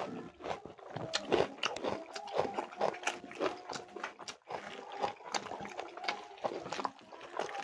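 Close-miked eating: a person chewing a curry meal, with irregular wet smacking and clicking mouth sounds.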